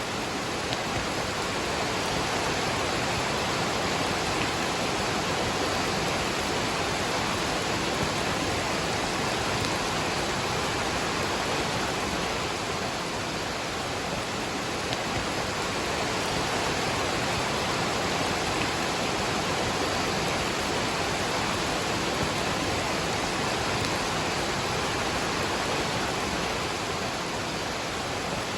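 Waterfall and rain: a steady, even rush of falling water that holds unchanged throughout.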